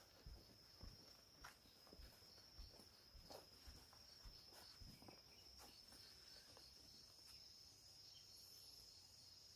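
Faint, steady high-pitched insect trill, with soft footsteps thudding about twice a second in the first half.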